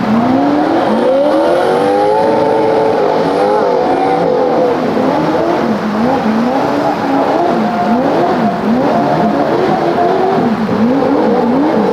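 Off-road 4x4 competition engine revving hard, its pitch rising and falling over and over as the throttle is worked; the overlapping pitch lines suggest more than one engine.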